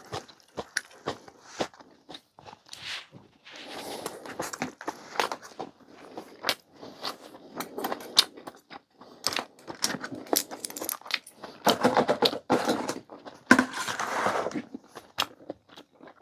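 Close-miked eating sounds from clam kalguksu noodle soup and side dishes: chewing and slurping, with many sharp clicks and taps of utensils. Two longer, louder stretches of eating noise come about four seconds in and again near the end.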